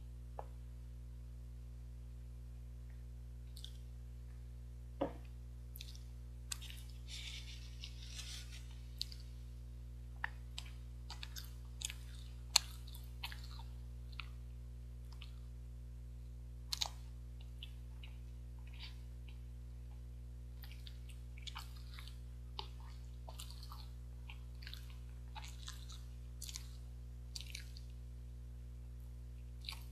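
Chewing and mouth sounds of a person eating soft steamed rice cake (jeungpyeon), with scattered small clicks and smacks, the sharpest about 5 and 12 seconds in, over a steady low hum.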